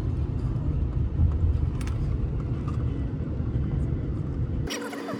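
Steady low rumble with no clear pitch. About four and a half seconds in it cuts off suddenly and music begins.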